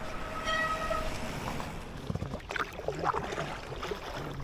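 Inflatable kayak moving along on the water, with water and paddling noise, a brief high steady tone about half a second in, and faint voices later.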